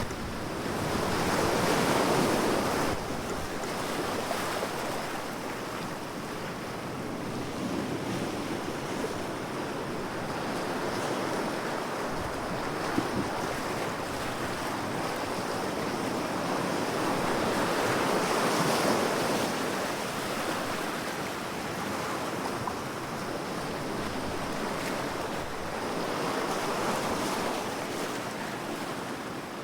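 Sea waves breaking and washing up the shore in a continuous rushing wash, swelling with each incoming wave every several seconds.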